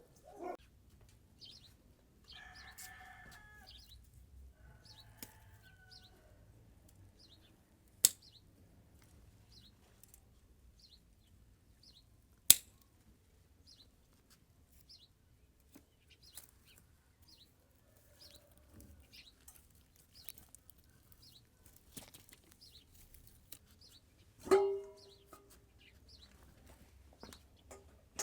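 Faint small-bird chirps repeating about once a second, with two sharp knocks and a short cluck-like fowl call near the end.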